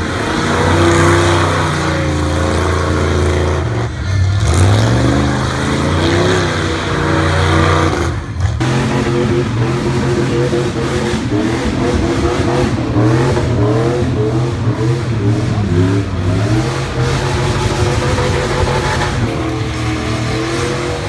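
Car engine revving hard and held at high revs, with a harsh hiss over it, for a burnout. The revs drop sharply and climb again about four seconds in and again about eight seconds in.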